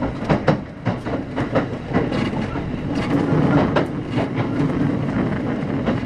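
Kintetsu 5800-series electric commuter train running on the line, wheels clicking over rail joints above a steady rumble from the running gear.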